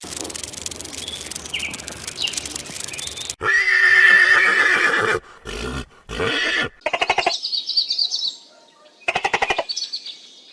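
A horse neighing several times, loud pitched calls with a quavering tremble, following a few seconds of rough rustling noise.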